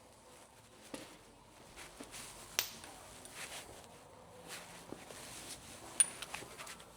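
Scattered sharp metallic clicks and knocks from hand tools and coilover parts being handled. The loudest comes about six seconds in with a brief high ring after it, and another sharp one about two and a half seconds in.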